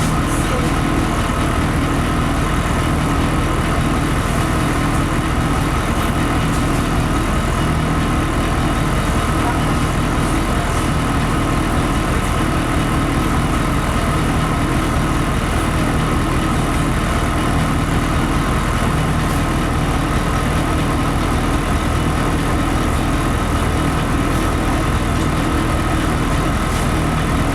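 LiAZ-5256 city bus under way, heard from inside the cabin: a steady engine drone with road and body noise, no change in pitch or level.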